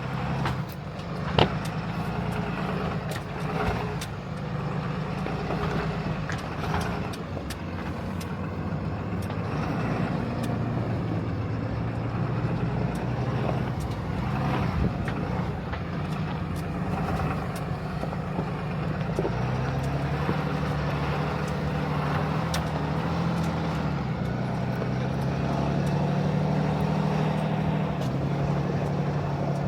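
Ram Cummins diesel tow truck running under load at low speed up a steep, rough trail, with scattered clicks and knocks over the engine. The engine note rises about two-thirds of the way through and holds there.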